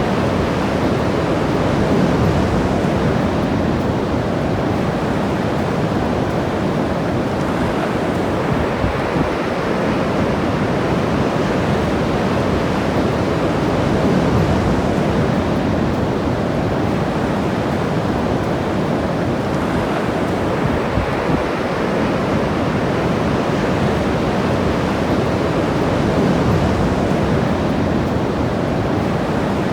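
Ocean surf breaking and washing on a beach, a steady rush that swells and eases every few seconds, with some wind on the microphone.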